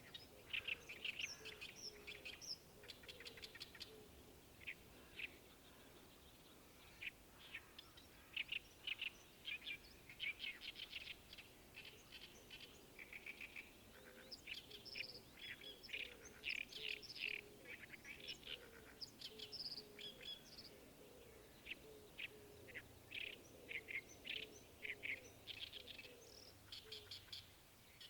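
Small birds chirping and singing in quick runs of short notes, with only brief gaps between phrases, over a faint outdoor hush.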